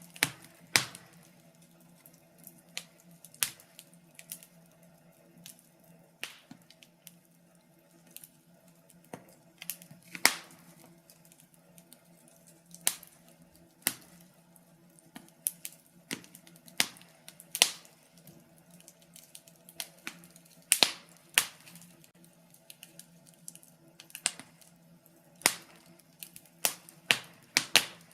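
Wood fire crackling in a fireplace: irregular sharp pops and snaps from burning logs, some loud and close together, over a quiet bed with a faint steady low hum.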